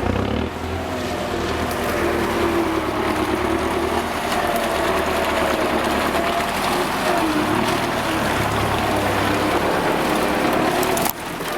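An off-road vehicle's engine running hard under load, its pitch wavering slightly up and down. The sound changes abruptly near the end.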